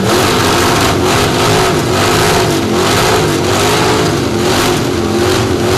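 1967 Chevy Camaro engine revved through open headers. It climbs at the start, is held at high revs with the pitch wavering up and down, and drops back at the end. It is loud enough to read 117 decibels on the contest meter.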